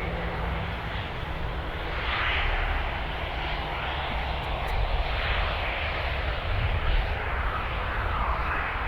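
Airliner engines running at an airport, a steady low rumble under a rushing hiss that swells and wavers in pitch.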